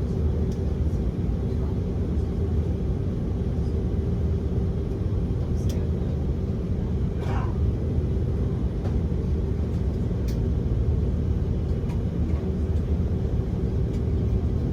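Steady low rumble inside the cabin of an Airbus A330-300 airliner, with a few faint clicks.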